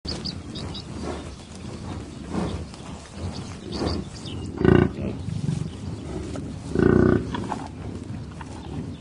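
A large animal's deep calls, the two loudest coming about five and seven seconds in.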